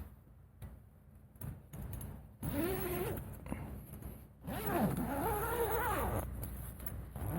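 A zipper being pulled in two long strokes, each a rasp whose pitch rises and falls as the pull speeds up and slows.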